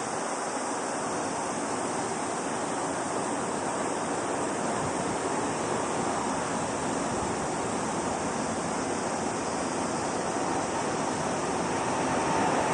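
Steady roar of jet engines from an airliner taking off.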